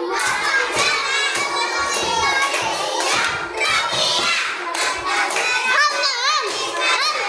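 A class of young children shouting and singing out together, many high voices overlapping, with a few claps among them.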